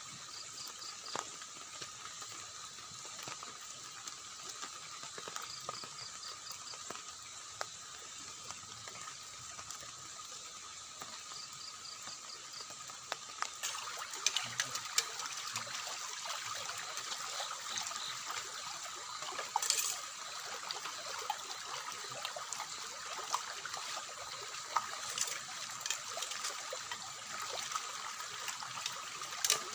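Running and trickling water under rain, a steady wet hiss. From about halfway through it grows louder and is peppered with sharp taps of drops. Faint steady high tones and a few short runs of high chirps sit above it.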